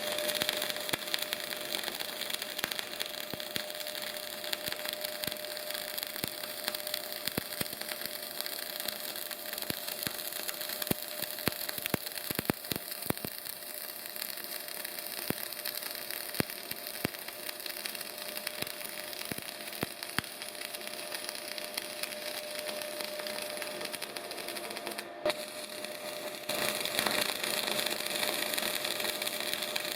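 Semi-automatic MAG (CO2) welding arc crackling and spitting steadily as a bead is laid, with a steady high tone underneath. It cuts out briefly about 25 seconds in and comes back louder near the end.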